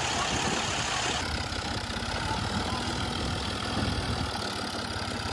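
Diesel engine of heavy farm machinery idling with a steady low hum; a high hiss over it drops away about a second in.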